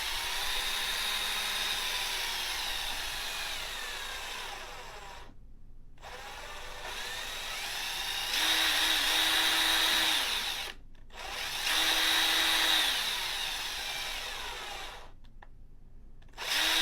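A small motor whirring with a steady high whine, swelling and fading in stretches of a second or two and cutting out fully a few times.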